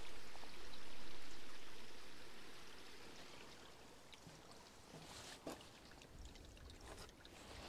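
Rushing water that swells over the first second and fades away by about four seconds in, then only faint outdoor ambience with a few light ticks.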